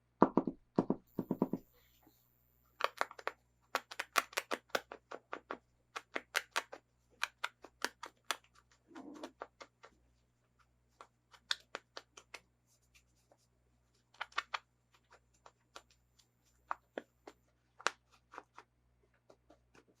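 Hands handling plastic toy packaging: a few dull knocks, then a quick run of crackles and clicks, thinning out to scattered clicks in the second half.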